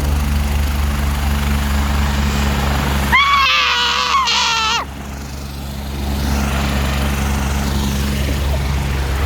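Helicopter rotor and turbine running with a steady low hum as it lands. About three seconds in, a high, wavering cry cuts in for under two seconds, then the hum returns.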